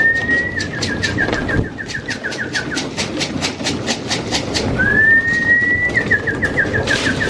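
Racing pigeons feeding, with a fast, even run of sharp clicks, about five a second, from beaks pecking grain. Twice, a bird gives a whistled call that slides upward and then breaks into a quick stuttering run of falling notes.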